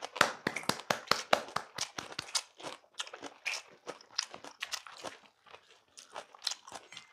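Close-miked chewing of brown-rice bibimbap: irregular crunchy smacks and bites, several a second.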